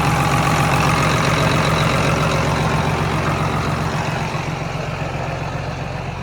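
John Deere 8220 tractor's six-cylinder diesel engine idling steadily, growing somewhat fainter over the last couple of seconds. The engine runs pretty decent, with no visible blow-by.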